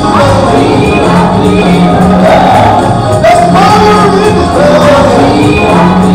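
Loud gospel music: voices singing over a band with bass and drums.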